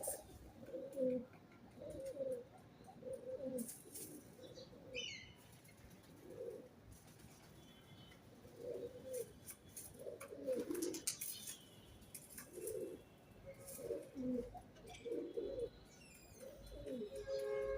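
Pigeons cooing over and over, a low coo roughly every second, with a brief higher chirp from another bird about five seconds in and a few sharp taps.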